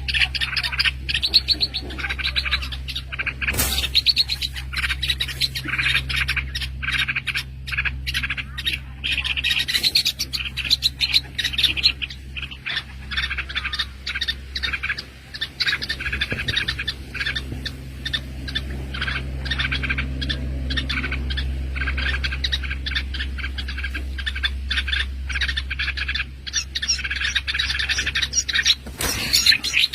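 Small birds chirping rapidly and continuously in high, dense calls, over a steady low hum.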